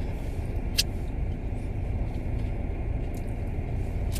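Steady low rumble of a car cabin's background noise, with one sharp click about a second in and a few faint ticks.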